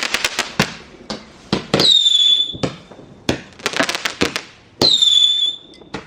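Fireworks going off in quick succession: rapid crackling bangs, and twice a shrill whistle that drops a little in pitch and then holds for about a second, from a whistling firework.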